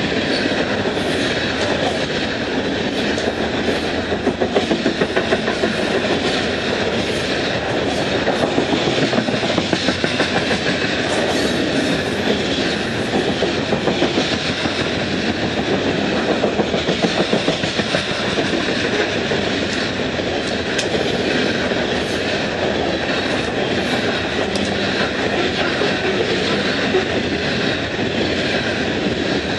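Coal train of hopper cars rolling past close by: a steady rumble of steel wheels on rail, with clickety-clack over the rail joints coming in clusters every few seconds.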